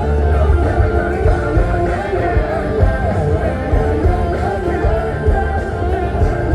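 Live rock band playing a song, with singing over drums, bass and guitar.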